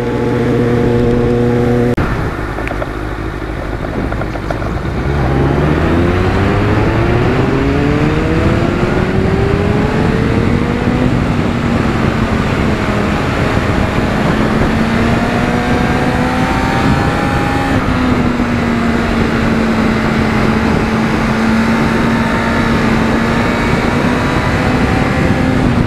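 Motorcycle engine with wind noise, heard from the rider's seat. The engine holds a steady note, drops off about two seconds in, then climbs in pitch for several seconds as the bike accelerates. It then settles into a steady cruise, easing slightly about two-thirds of the way through.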